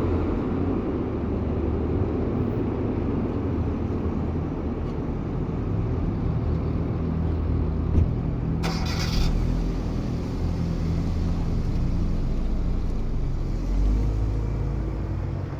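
Steady low rumble of vehicle engines, like road traffic, with a short hiss just past halfway.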